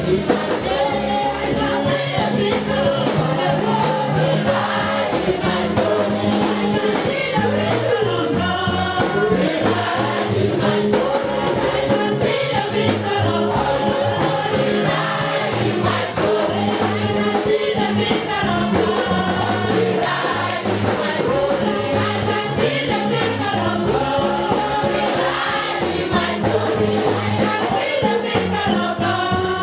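Gospel worship song sung by a choir and congregation over a band, with a steady repeating bass line.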